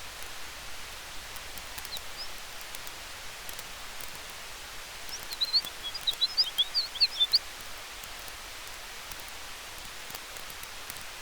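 Campfire crackling faintly over a steady hiss of wind, with a quick cluster of short high chirps a little past halfway.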